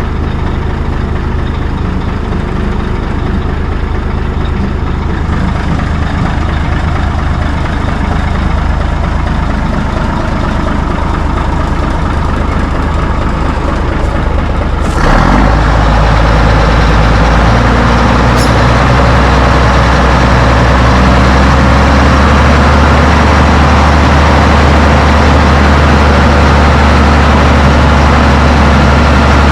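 Heavy truck engine running steadily, with a sudden step up in loudness about halfway through that then holds steady.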